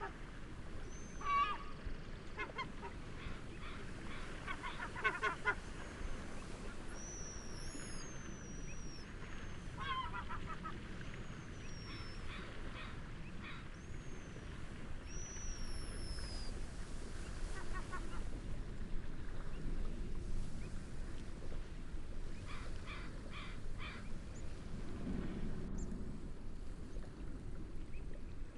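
Waterbirds calling in repeated harsh honking bursts over a steady wash of wind and waves, with a run of short, high, arching bird chirps in the middle.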